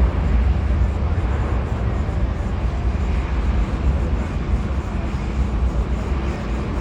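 Airbus A330-900neo's Rolls-Royce Trent 7000 turbofan engines at takeoff power, a steady deep rumble with a hiss above it that eases slightly toward the end.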